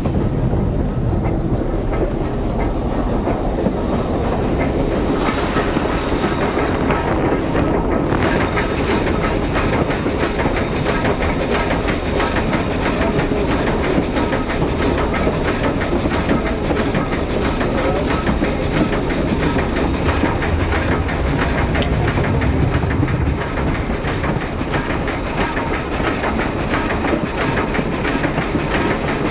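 Steam-hauled passenger train rolling along, heard from an open observation car: steady wheel and rail noise with a dense clatter of wheels over the rail joints. A hiss joins about five seconds in and carries on.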